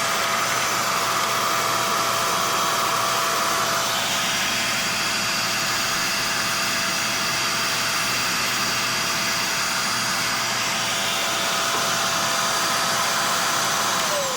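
Hand-made bagless vacuum cleaner's motor running steadily, a high whine over rushing air, its tone shifting about four seconds in. Near the end it is switched off and the whine starts to fall as the motor spins down.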